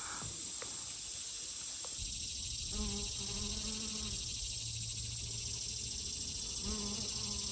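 Steady high-pitched drone of a summer insect chorus, with a faint low hum that comes and goes twice.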